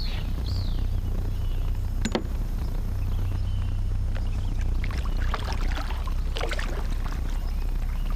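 Handling and movement sounds on a fishing kayak: a steady low rumble, one sharp knock about two seconds in, and a cluster of short noisy bursts from about five to seven seconds in.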